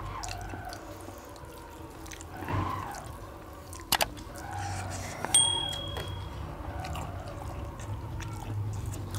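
Close-miked eating sounds: wet chewing and small mouth clicks as rice and mutton curry are eaten by hand. About four seconds in there is a sharp click, then a second later a short high ding, the sound effect of a pop-up subscribe button.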